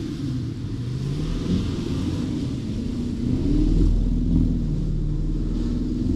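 A BMW X5's twin-turbo V8 revving up and down over and over while the car is driven sliding in snow. Its pitch rises and falls several times over a heavy low rumble, loudest a little past the middle.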